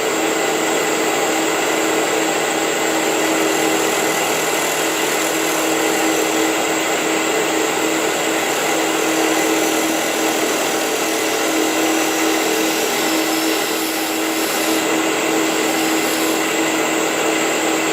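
Wood lathe running at high speed with an off-centre lid mounted in an off-centre chuck, a gouge taking a finishing cut across it: a steady motor whine over an even hiss.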